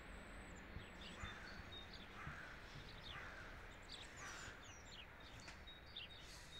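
Faint small birds chirping: scattered short, quick downward chirps over a low steady background hum.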